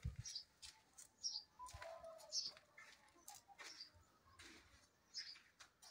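Faint bird chirping: short high chirps repeating about once or twice a second, with a soft low thump at the very start.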